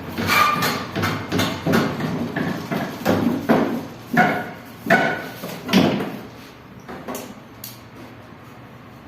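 Irregular metallic knocking and clanking, about ten sharp strikes, some with a short ring, as the fan motor is worked free of a window air conditioner's chassis. The knocks die away after about six seconds.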